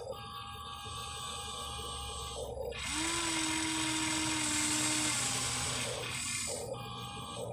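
Small electric motors and gearing of a Huina 1593 RC excavator whirring as it moves, with a louder, steady-pitched motor whine coming in about three seconds in and dropping away a couple of seconds later.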